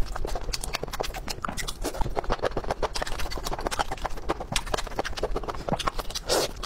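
Close-miked chewing and wet mouth sounds: a steady run of quick sticky clicks while eating noodles, with a louder bite into a meatball skewer near the end.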